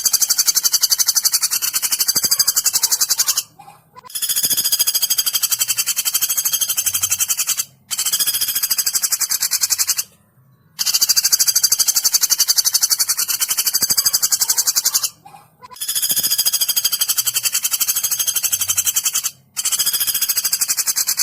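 Woodpecker calls from a masteran recording used to train songbirds: long, high-pitched, very fast rattling trills of about two to four seconds each, repeated with short pauses between them.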